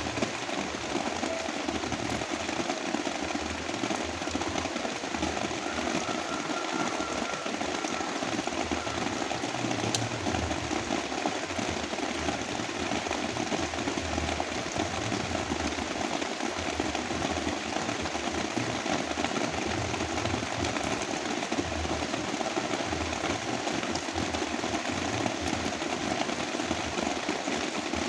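Heavy rain mixed with brown noise: a dense, steady hiss with a fluttering low rumble underneath.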